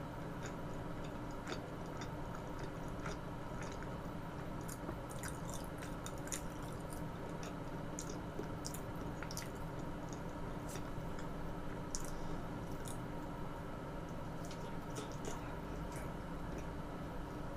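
Close-miked chewing and mouth sounds of someone eating, with many small scattered clicks and smacks at an uneven pace.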